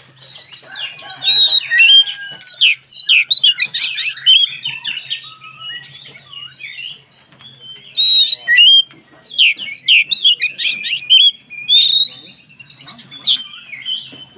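Oriental magpie-robin (kacer) in full song: loud, rapid, varied whistles and chirps in two long bursts with a quieter break between them, then a short burst near the end.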